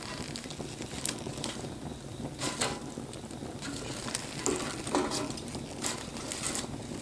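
Wood campfire burning, crackling with irregular pops over a low steady rustle.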